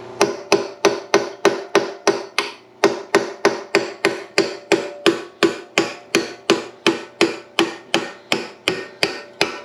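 Hammer striking steel in a steady rhythm, about three blows a second, each with a short metallic ring: driving a locating roll pin (dowel pin) out of the asphalt roller's drum assembly.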